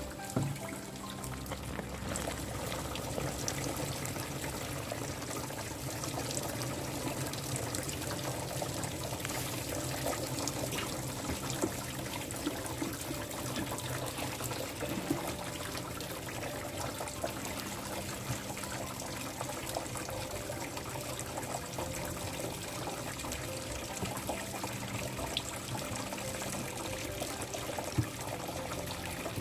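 Liquid trickling and pouring in a continuous dribble.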